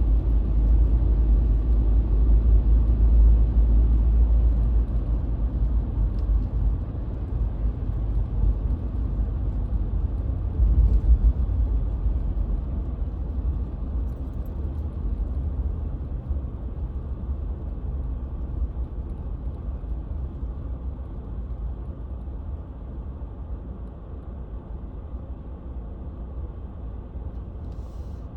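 Car driving along, a steady low rumble of engine and road noise that grows gradually quieter through the stretch, with a brief louder swell about eleven seconds in.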